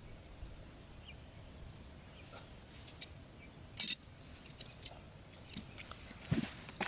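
Scattered light clicks and taps over a faint steady hum. There is a sharp click about three seconds in and a brief louder scrape just before the four-second mark, then a run of small ticks and a dull knock near the end.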